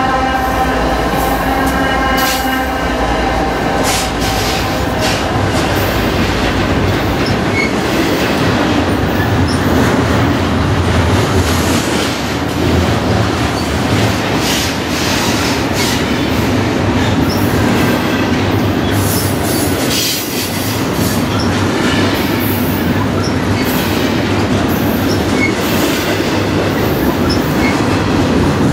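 BNSF freight train passing close by at speed. The trailing diesel locomotive's engine tone fades over the first few seconds. After that comes a steady rumble of double-stack container well cars rolling past, with the wheels clacking over rail joints.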